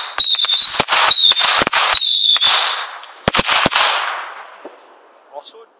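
Fireworks going off: a steady high whistle over a loud hiss, cut through with many sharp bangs and cracks, until the whistle stops about two and a half seconds in. About three seconds in come three loud bangs in quick succession, and then the hiss fades away.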